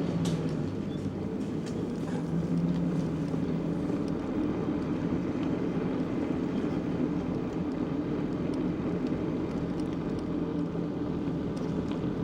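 A steady, unchanging engine drone.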